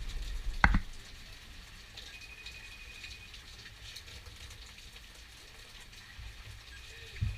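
Rain falling steadily during a thunderstorm, with a sharp tap of a drop less than a second in and another near the end. A low rumble fades out during the first second.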